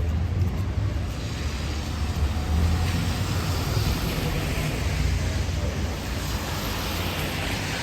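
Road traffic on a rain-wet city street: a low vehicle engine rumble close by, with a hiss that swells from about a second in and comes and goes, as of tyres on the wet road.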